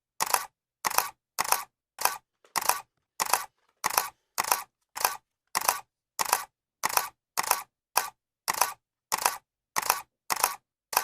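Camera shutter clicking over and over at an even pace, a little under two clicks a second. Each click is a quick double snap.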